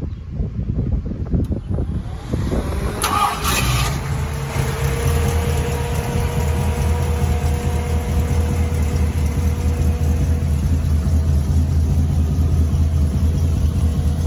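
Ford 302 small-block V8 in a hot-rodded 1940 Mercury, running: uneven for the first few seconds, a brief rev about three seconds in, then a steady, even idle.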